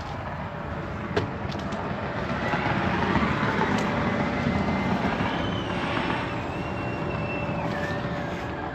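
A passing road vehicle, a steady rushing noise that swells to its loudest about three seconds in and then slowly fades.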